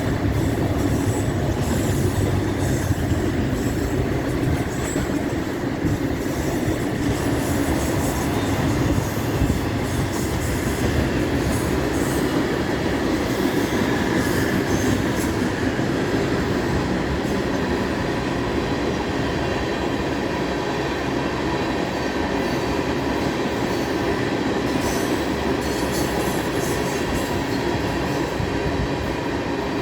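Freight train cars rolling past: a steady, loud rumble of wheels on rail with scattered clicks and clatter.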